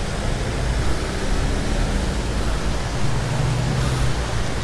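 Steady hiss of rain and tyres on a wet city street, with a low engine hum from passing traffic that grows stronger about three seconds in.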